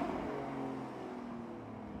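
Porsche 981 Cayman flat-six through a SOUL Performance valved exhaust, the engine speed slowly falling off throttle and the exhaust note dying down.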